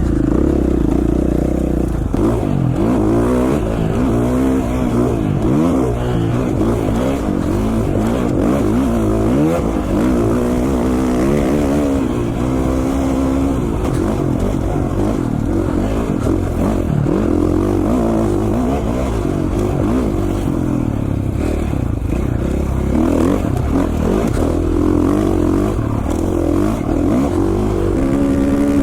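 Single-cylinder 450cc four-stroke dirt bike engine being ridden, its pitch climbing and dropping again and again as the throttle is rolled on and off.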